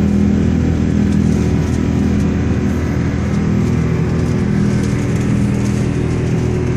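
Jet engine noise from a Singapore Airlines Airbus A380's four Rolls-Royce Trent 900 turbofans at takeoff power: a steady, loud rumble with a low drone.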